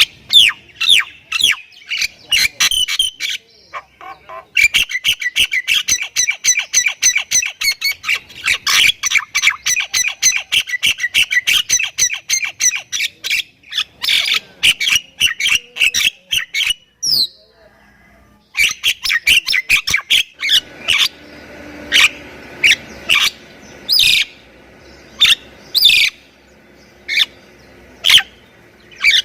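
Jalak kebo (myna) singing loudly in a long, fast series of sharp repeated notes. It breaks off briefly past the middle, then goes on with single loud, sharp calls about once a second.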